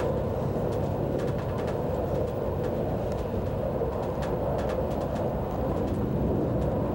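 Steady running rumble and hum inside a first-generation ICE high-speed train carriage, with a few faint clicks scattered through it.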